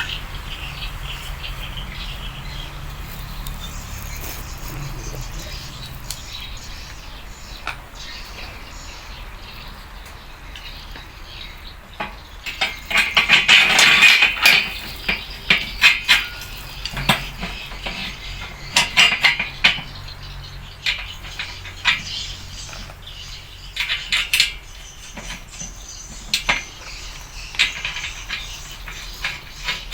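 Metal clinking and clattering in irregular bursts, loudest from about twelve to sixteen seconds in, over a steady low hum.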